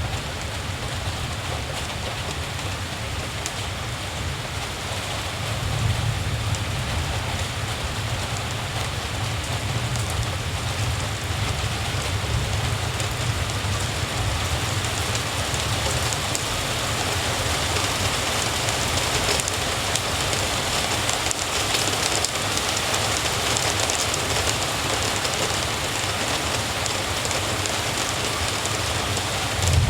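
Steady rain falling on surfaces, with fine drop patter, over a continuous low rumble that swells slightly about six seconds in.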